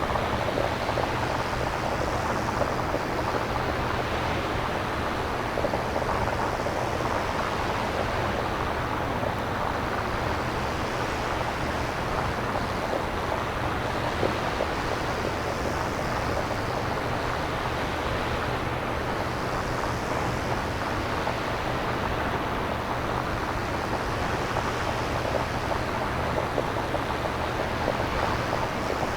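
Synthesized nature-style noise, made without samples, resembling ocean surf: a steady hiss that swells gently every few seconds over a constant low rumble.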